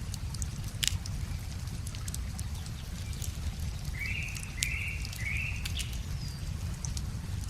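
Wood fire crackling with scattered sharp pops, over a steady low rush of flowing river water. About four seconds in, a small songbird gives three short trills in quick succession.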